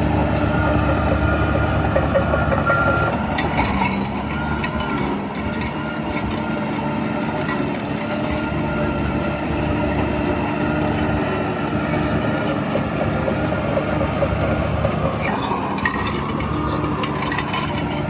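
Heavy diesel construction machinery running steadily, with brief metallic clatter about three to four seconds in and again near the end.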